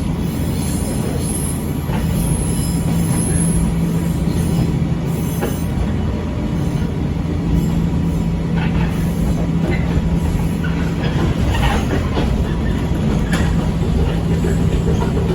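Echizen Railway 5001-series railcar running along the track: a steady rumble with a low, even hum, and a few scattered clacks of the wheels over rail joints.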